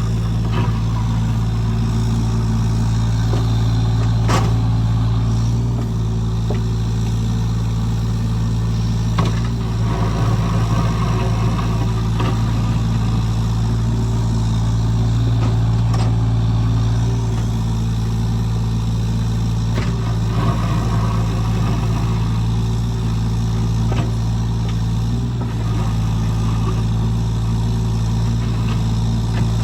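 Heavy earthmoving equipment's engine running steadily at constant speed, with a few sharp metallic clanks.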